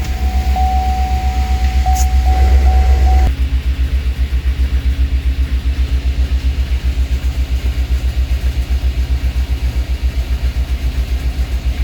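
A Chevrolet Suburban V8 idling with its freshly rebuilt 6L80 automatic transmission, making a fast, even low pulsing. A thin steady tone is heard over it for about three seconds, then changes abruptly to a lower steady hum. The owners take this noise for the transmission sucking air while the dry torque converter fills with fluid.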